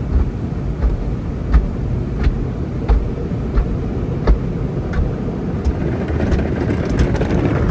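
Automatic tunnel car wash heard from inside the car: a steady low rumble of the wash equipment and water on the body, with a sharp knock against the car about every 0.7 seconds. The hiss of spray builds near the end.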